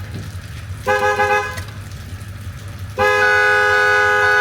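Vehicle horn sounding in loud, steady blasts: a short one about a second in, then a long one starting about three seconds in. The horn is going off by itself while a booster is hooked up to the truck, before it is started.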